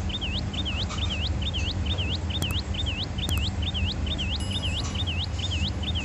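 A vehicle's electronic warning tone chirping over and over, a quick high falling-and-rising swoop about twice a second, steady and unchanging, over a low engine hum.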